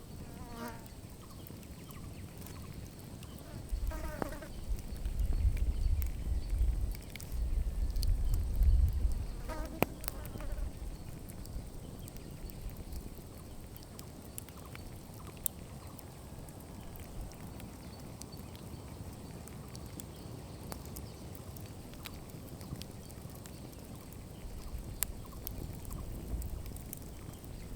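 Wood campfire crackling, with scattered sharp snaps and pops. Low rumbles come and go, strongest from about four to eleven seconds in, and a few short descending calls sound near the start, at about four seconds and at about ten seconds.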